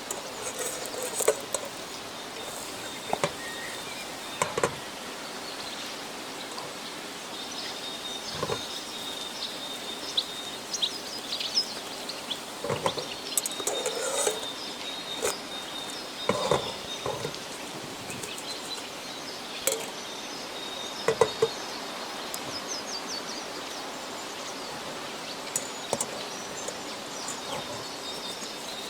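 Outdoor ambience with a steady high insect-like tone and short bird chirps, broken by scattered sharp clicks and knocks.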